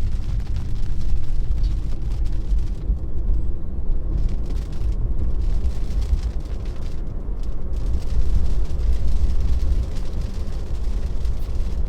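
Steady low road rumble inside a moving Tesla, from its tyres rolling on the road, with no engine note under it.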